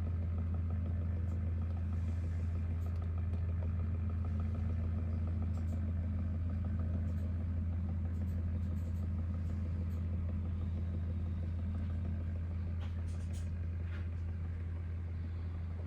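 A steady low mechanical hum, unchanging throughout, with a few faint light clicks.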